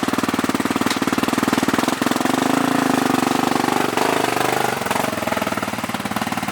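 Motocross bike engine running close by with a fast, even pulse, its pitch dipping and then rising again past the middle.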